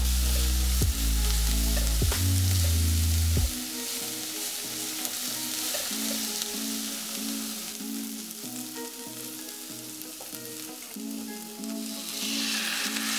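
Shredded cabbage and carrots sizzling in hot oil in a pan as they are stirred, under background music. Near the end the sizzle grows louder as udon noodles are dropped in.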